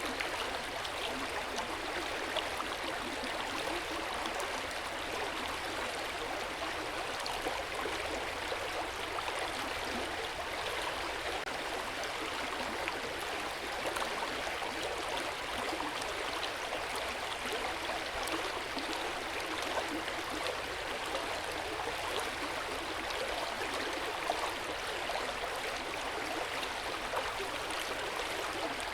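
Hot-spring water flowing steadily into an open-air bath, a constant splashing and burbling with small drips and splashes now and then.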